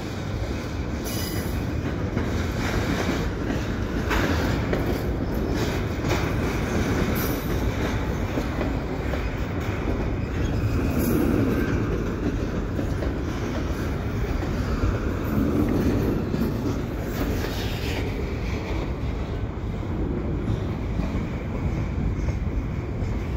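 A cut of double-stack container well cars being shoved slowly into yard tracks: a steady rolling rumble with wheels clicking over rail joints and a brief high wheel squeal about a second in.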